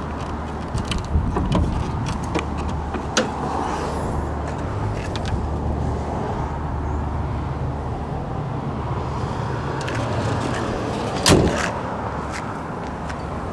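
2000 Toyota Camry's engine idling steadily, with scattered light clicks and knocks of handling around the car. A single loud thump about eleven seconds in, as the hood is shut.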